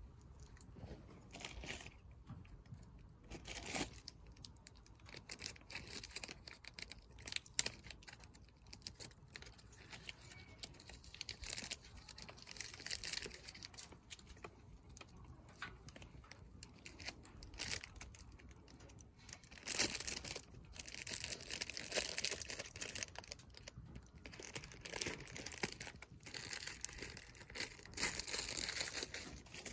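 Wood fire crackling in a fire pit, with irregular sharp pops and stretches of denser crackle.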